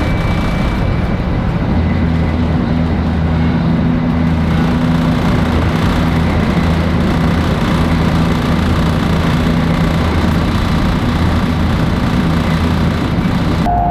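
500 Series Shinkansen running at speed: a loud, steady rushing rumble with a low steady hum under it. Near the end the sound changes abruptly and a steady higher tone comes in.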